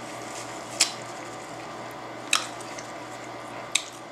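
A person chewing a mouthful of chicken burrito, with three sharp wet mouth smacks about a second and a half apart.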